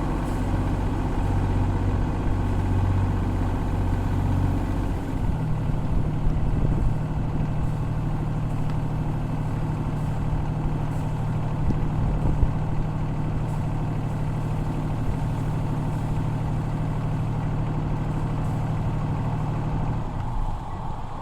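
Sailing yacht's inboard engine running under way. The note steps up to higher revs about five seconds in, holds steady, then eases back near the end.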